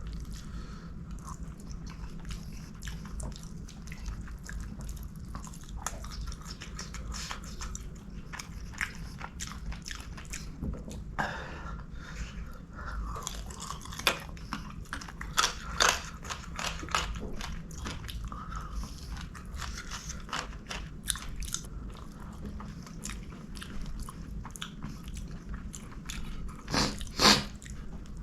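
A person eating a meal of string hoppers and curries with the mouth close to the microphone: steady chewing and biting with many small wet clicks and occasional sharper crunches, the loudest of them near the end.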